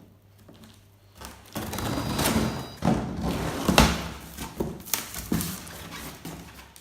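Large cardboard shipping box being cut open and handled: after a quiet moment, a stretch of scraping and rustling, then several thumps and knocks, the loudest near the middle.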